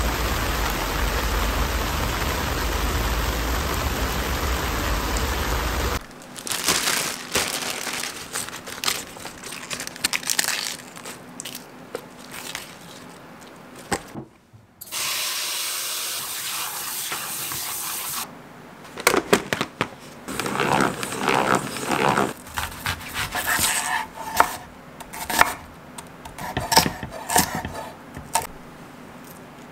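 Heavy rain pouring down on a city street for the first few seconds. Then kitchen sounds: water running steadily for a few seconds while lettuce is washed in a salad spinner, then a chef's knife slicing celery on a wooden cutting board in quick, repeated strokes.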